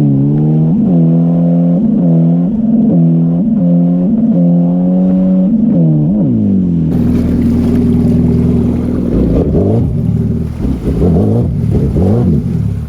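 Straight-piped Honda Aquatrax F-12X turbo jet ski engine revved in quick blips, its pitch rising and falling about twice a second, then held briefly and let drop. From about seven seconds in it runs at a lower, steadier note with a rushing hiss over it and a few rises and falls in pitch.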